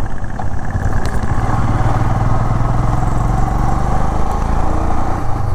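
Motorcycle engine running steadily at cruising speed on the road.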